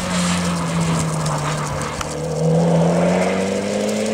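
Mitsubishi Lancer Evolution X's turbocharged four-cylinder engine working hard, its pitch dipping briefly about two seconds in and then climbing steadily as the car accelerates away.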